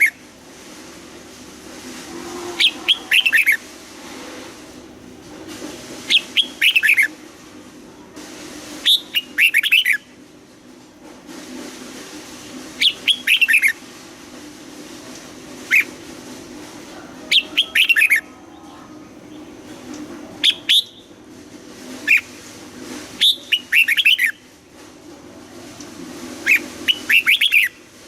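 Red-whiskered bulbul singing short, loud phrases of quick falling whistled notes, about ten phrases repeated every two to three seconds.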